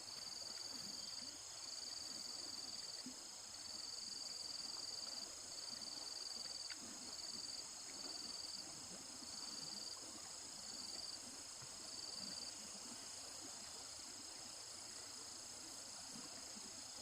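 Faint chorus of insects calling steadily, high-pitched, with one trilling call coming and going in short bouts that stop about three-quarters of the way through.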